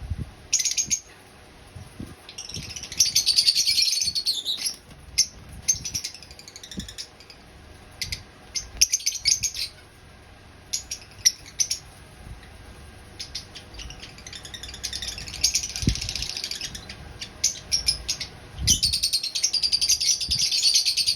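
Lovebirds chattering and chirping: dense bursts of rapid, high chatter about three seconds in, again in the middle of the stretch and through the last couple of seconds, with short single chirps scattered between.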